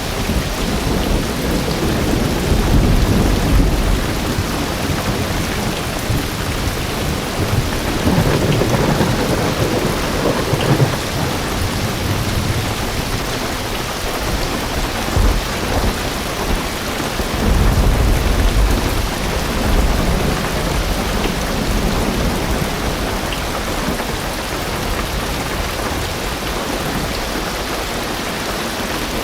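Heavy rain drumming steadily on a car roof, heard from inside the car, with low rumbles of distant thunder swelling up a few times.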